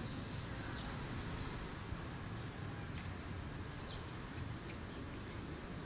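Birds chirping in short calls now and then, over a steady low background rumble.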